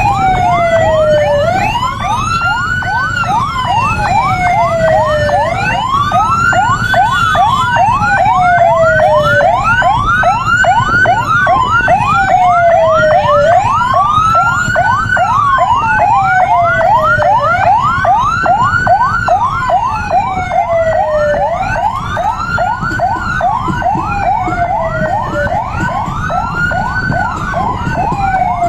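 Two vehicle sirens sounding together over a low rumble. One is a slow wail that climbs quickly and falls away every few seconds; the other is a fast yelp repeating several times a second.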